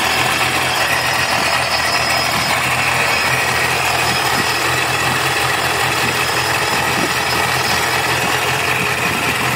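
Procharger-supercharged LS2 408 stroker V8 with long-tube headers and cat deletes, idling steadily.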